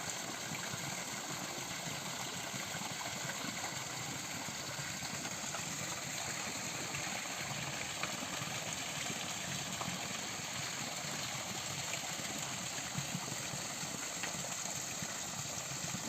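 Steady forest ambience: an even rushing noise with no breaks, topped by a constant high hiss.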